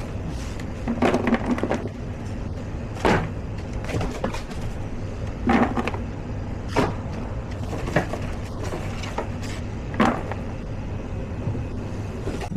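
Kitchen work: a steady low hum with about six short knocks and clatters spaced a second or two apart.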